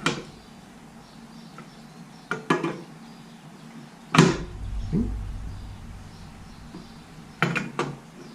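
Sharp metallic clanks and knocks from handling and adjusting a WEN 8-inch jointer's parts: one at the start, a pair about two and a half seconds in, the loudest just after four seconds with a low rumble after it, and another pair near the end.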